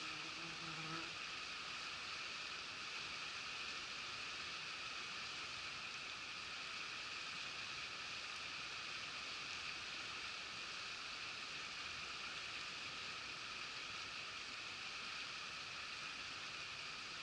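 Steady murmur of a shallow mountain river running over stones, an even rushing hiss that does not change.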